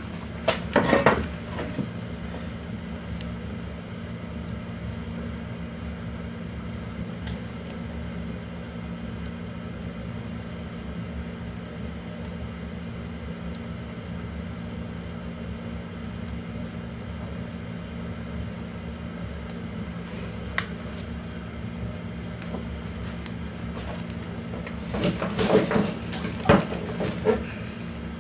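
Oak firewood burning in a fireplace stove, with clusters of sharp crackles and knocks about a second in and again near the end, over a steady low hum.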